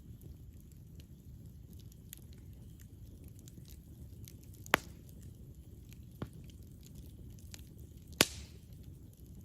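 Campfire burning: a steady low rumble under light crackling, with two sharp pops, one about halfway through and one near the end, and a smaller pop between them.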